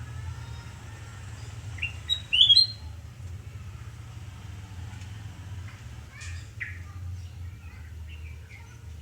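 Kutilang emas bulbul singing: a loud, short phrase of rising, slurred notes about two seconds in, then softer calls a few seconds later, over a steady low hum.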